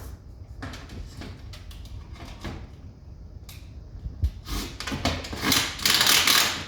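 Parts of a ceiling-cassette air conditioner being handled during reassembly: scattered knocks and clicks, then a louder scraping rustle for about two seconds near the end.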